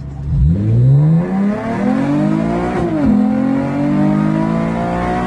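Modified 2012 Camaro's 3.6-litre V6 (cold air intake, ported intake, high-flow cats, X-pipe, ZL1 mufflers, a known exhaust leak) accelerating hard from a standstill at about 70% throttle, heard from inside the cabin. The revs climb steadily from about half a second in, drop sharply at an automatic upshift near three seconds, then climb again.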